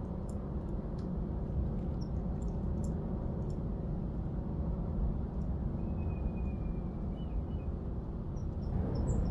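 Faint high chirps from small garden birds, with one thin drawn-out call about halfway through and a quick run of chirps near the end, over a steady low rumble.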